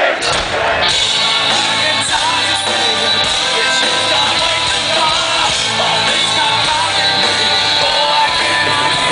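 Live rock band playing loud, continuous heavy music with sung and yelled vocals.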